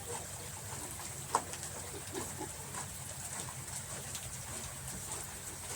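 Faint short bird calls over a steady low hum, with scattered light ticks and one sharper click about a second and a half in.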